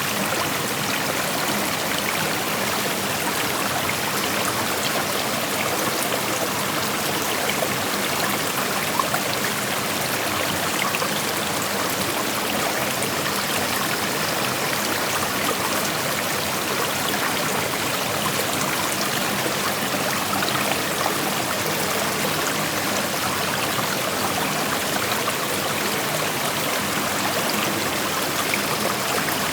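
Creek water flowing over rocks, a steady rushing with fine splashing and trickling.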